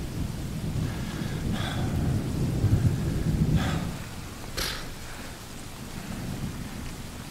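Thunderstorm ambience: steady rain with a rolling rumble of thunder that is heaviest in the first few seconds and dies away around the middle.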